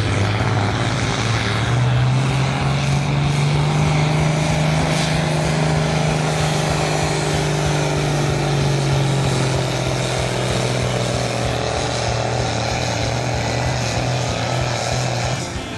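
Tractor engine running hard under load while pulling a weight sled: a steady low engine note that steps up in pitch about two seconds in, holds, and drops away near the end.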